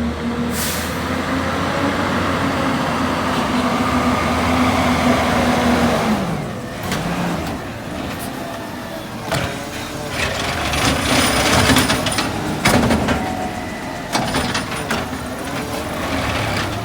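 Rear-loader garbage truck working its route: the engine holds a steady raised speed for about six seconds, then drops in pitch. Several sharp bangs and clatter follow through the second half.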